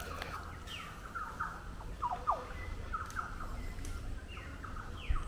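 Several birds calling: short chirps and quick downward-sliding whistles, one after another, over a low rumble, with a brief knock near the end.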